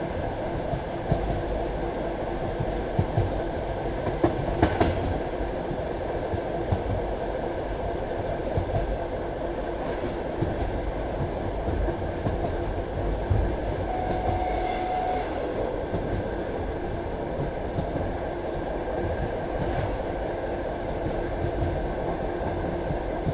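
Passenger train carriage running along the track: a steady rumble of wheels on rail with occasional knocks as the wheels cross rail joints, and a short steady tone about fourteen seconds in.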